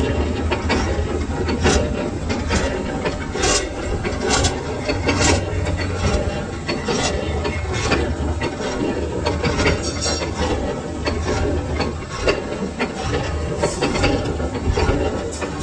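Metal lathe running, with a steady low hum and irregular scraping clicks of metal being worked.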